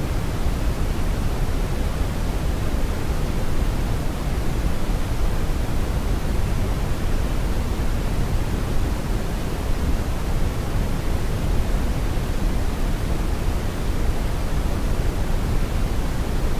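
Brown noise: a steady, even rumbling hiss, heaviest in the low end, with no change throughout.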